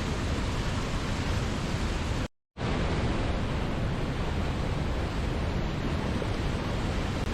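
Waterfall rushing in a steady, even roar of falling water, heavy in the low end. It cuts out completely for a split second a little over two seconds in, then carries on unchanged.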